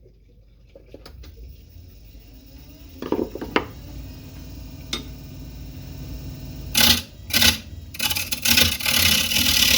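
Wood lathe motor running with a low steady hum while a carbide turning tool cuts the spinning yellow cedar and walnut bowl blank: two short scraping cuts about seven seconds in, then a longer continuous cut near the end.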